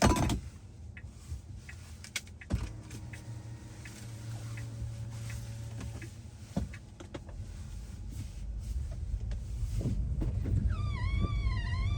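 A car door unlatching with a sharp click, then a second click a couple of seconds later and a low steady hum. Near the end, a wavering, rising-and-falling pitched call repeats several times over a growing rumble.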